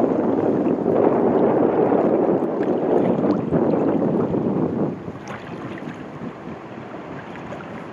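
Wind rushing on the microphone and water splashing around a kayak being paddled, a steady rushing noise that drops noticeably about five seconds in.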